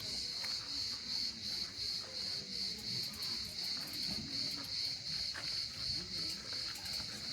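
Insects singing outdoors: a steady, high-pitched buzz that pulses evenly, about two to three times a second.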